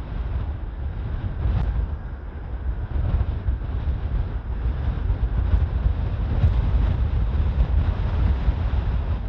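Strong gusting wind buffeting the microphone: an uneven low rumble that rises and falls throughout.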